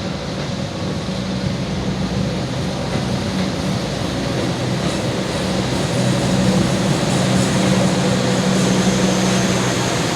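CC 206 diesel-electric locomotive (GE C20EMP) running, a steady engine rumble with low droning tones that grows somewhat louder about six seconds in.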